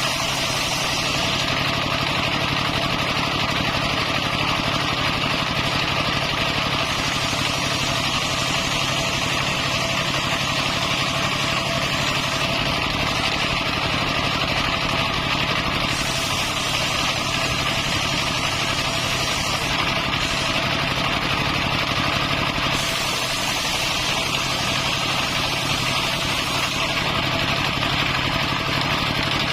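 Circular saw's motor running steadily at one constant speed, with no pauses or surges.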